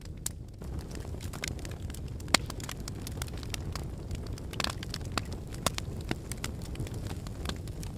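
Wood logs burning in a fireplace, crackling and popping irregularly over a low, steady rumble of flame. A few sharper pops stand out, about two and a half seconds in and again near the middle.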